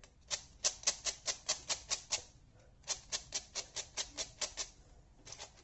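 Layers of a heavily lubed 5x5 speed cube being turned quickly by hand, a rapid run of plastic clicks about five a second, in two runs with a short pause between and a few more turns near the end.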